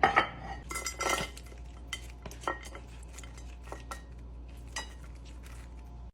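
Serving utensils clinking and scraping against a plate and salad bowl as salad is served: a quick run of clinks in the first second or so, then single clinks about a second apart.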